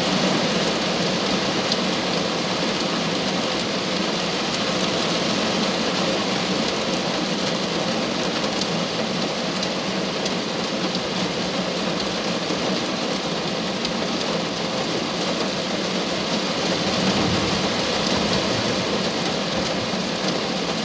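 Steady heavy rain falling, an even dense hiss with a few sharper drop ticks.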